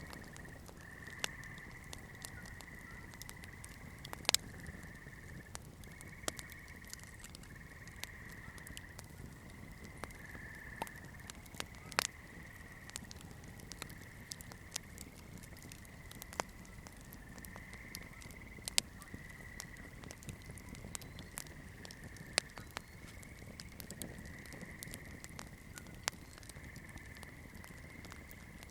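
Wood campfire crackling: irregular sharp pops and snaps, a few much louder than the rest, over a soft hiss. Behind it, a high, steady chirring call repeats in pulses about a second long.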